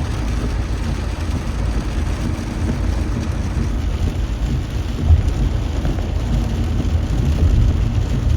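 Heavy rain pouring: steady noise with a strong low rumble, and a brief thump about five seconds in.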